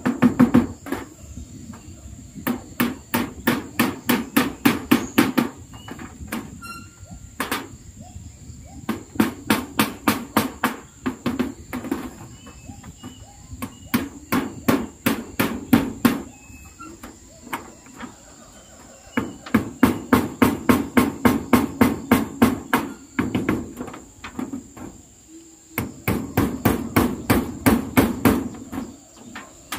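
Hammer driving nails into zinc roofing sheets: quick even blows, about four a second, in runs of a few seconds separated by short pauses. A steady high insect drone runs underneath.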